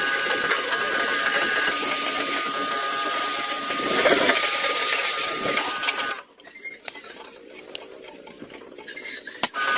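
A small motor runs steadily with a whine for about six seconds, then stops. A few clicks and knocks follow.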